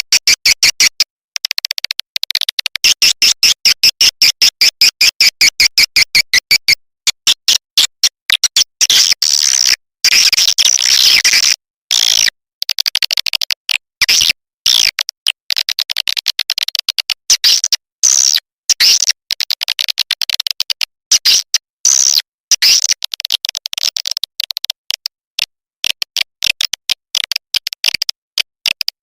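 Swiftlet call-sound recording: a rapid, looping train of high chirps and twitters of edible-nest swiftlets, broken by short gaps, with denser chattering stretches about a third of the way in and near the end.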